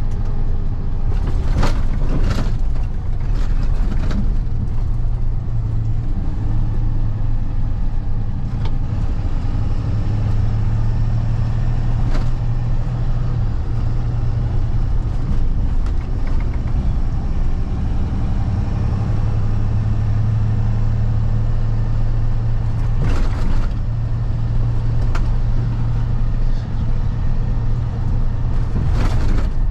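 Freightliner box truck driving, heard from the cab: a steady low engine drone with road noise, and a few brief knocks or rattles scattered through.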